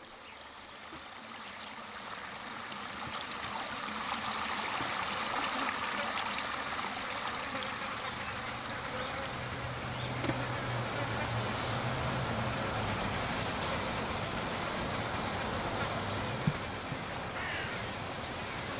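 Layered nature ambience of buzzing insects over a dense hiss of flowing water, swelling in over the first few seconds. A low steady buzz comes in around the middle, and a single sharp click sounds near the end.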